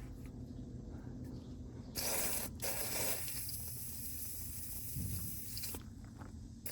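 Liquid Wrench penetrating oil sprayed from an aerosol can onto a seized, rusted fitting to loosen it: a hissing spray starts about two seconds in, breaks off for a moment, then runs for about three seconds more and stops sharply.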